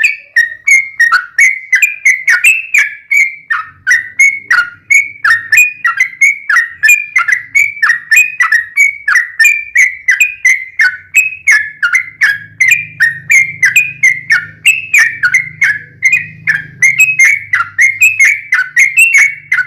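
Yellow-vented bulbul (trucukan) singing a long unbroken run of rapid, short whistled notes, about three a second, many of them falling in pitch.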